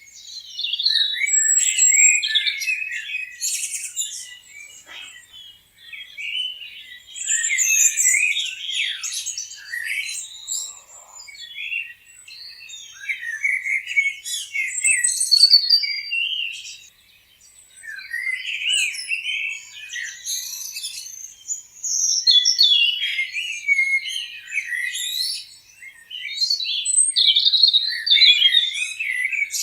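Several songbirds chirping and singing at once, in busy overlapping phrases of quick high chirps and trills that swell and ease off every few seconds.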